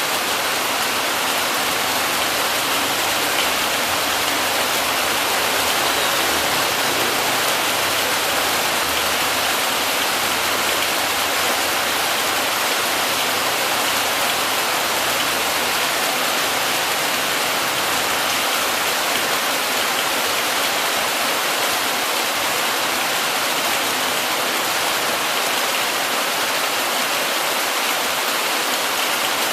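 Heavy rain falling steadily: an even hiss with no change in strength and no thunder.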